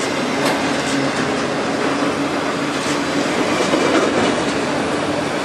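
Loaded autorack freight cars rolling past at close range: a steady rumble of steel wheels on rail, with a few sharp clicks and a thin steady tone through it.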